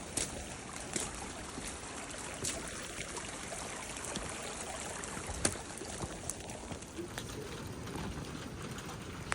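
Steady rain: an even hiss with irregular sharp taps of drops striking close to the microphone.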